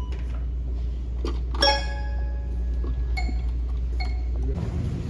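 A few small clinks of something hard being struck, the loudest about one and a half seconds in ringing on for about a second, over a steady low hum that stops near the end.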